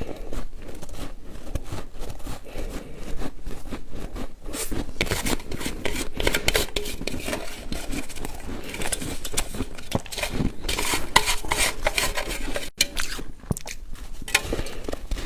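Ice being bitten and chewed close to the microphone: irregular crunching and cracking, busiest in the middle.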